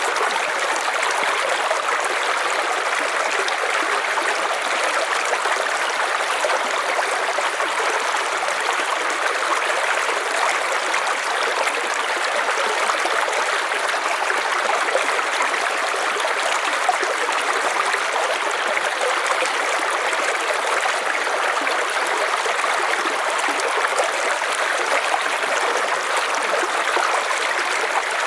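River water running over stones: a steady, even rushing and babbling.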